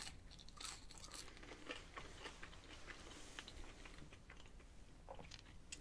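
Faint chewing of a mouthful of ranch-dipped fried potato fry, with small irregular clicks.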